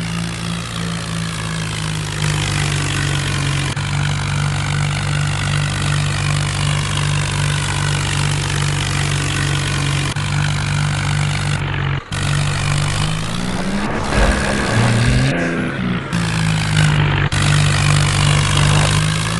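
HMT tractor's diesel engine running steadily, then revving up and down several times in the second half.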